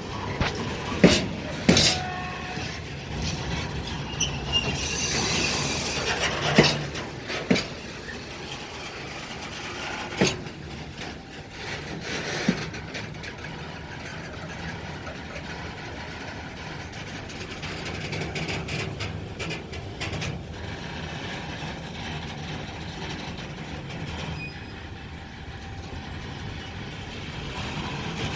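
Train rolling slowly on the tracks, with a steady rumble and a string of sharp wheel clanks over rail joints or points in the first half. There is a short hiss about five seconds in.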